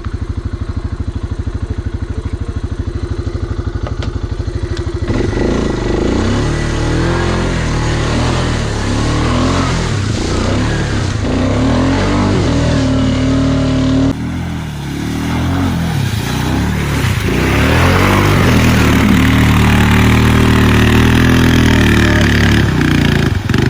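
Off-road vehicle engine idling with an even pulse, then revving up and down repeatedly from about five seconds in. After an abrupt change about fourteen seconds in, it revs again, louder and held higher for longer.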